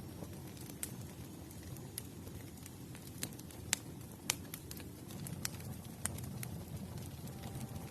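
Wood campfire burning with a low steady rumble, crackling and popping in irregular sharp snaps; two pops near the middle are the loudest.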